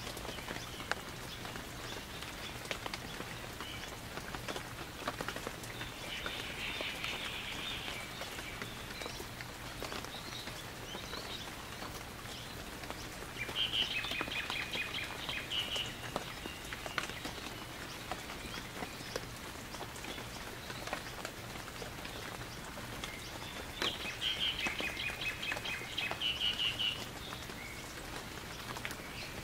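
Steady rain falling on foliage and the yard. Three times, a bird sings a short phrase of rapid repeated notes, each lasting two to three seconds; the last two are the loudest sounds.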